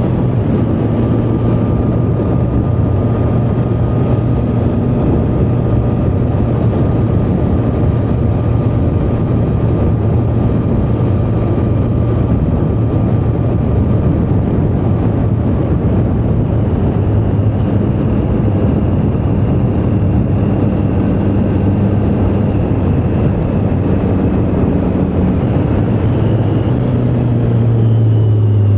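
Triumph Street Triple 765R's inline three-cylinder engine running at a steady cruise, then rising in pitch and getting a little louder near the end as the bike speeds up.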